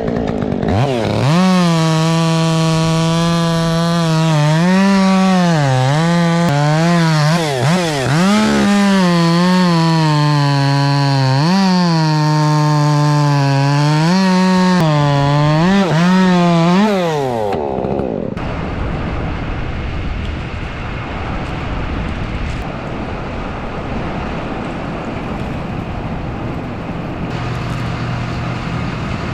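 Chainsaw running at high revs and cutting, its pitch dropping each time the chain bites into the wood and rising again between cuts. It stops a little past halfway, leaving a lower, steady engine running underneath.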